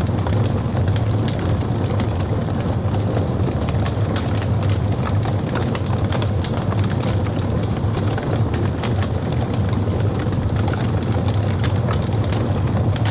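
Fire crackling, with frequent small sharp snaps and pops over a steady low rumble.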